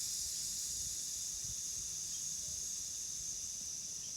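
Steam hissing steadily out of a Mamod toy traction engine's whistle as the boiler pressure is let off, fading slightly before it cuts off suddenly near the end.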